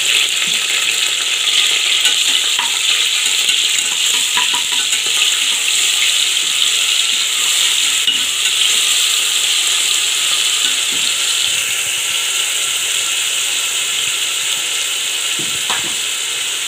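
Ginger-garlic paste sizzling in hot oil in an aluminium pressure cooker, frying off its raw smell. It is stirred with a spatula that clicks lightly against the pot a few times.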